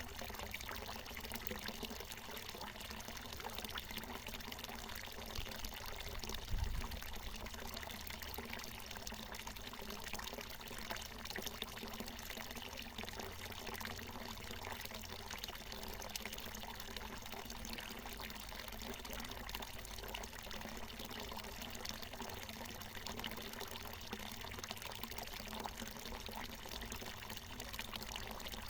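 Water falling steadily from a natural mountain spring, a continuous pouring splash. A brief low thump about six and a half seconds in.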